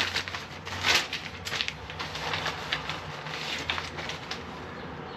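Irregular clicks and taps from the Weiser SmartCode keypad deadbolt being pressed and handled while a user code is entered, the sharpest about a second in, over a steady low hum. The taps stop after about four seconds.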